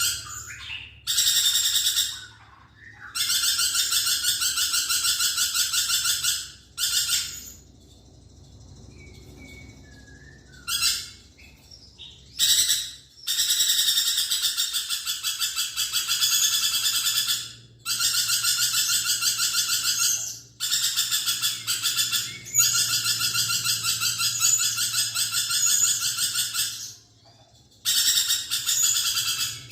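Lorikeet chattering in long bouts of rapid, rattling calls lasting several seconds each, separated by short pauses. A quieter stretch with a few scattered softer calls comes about a third of the way in.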